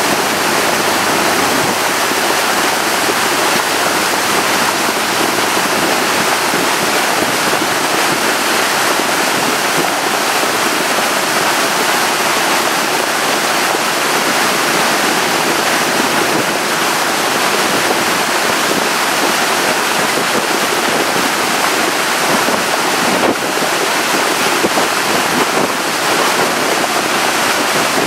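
Steady rush of wind on the microphone and water noise from a tour boat running at speed.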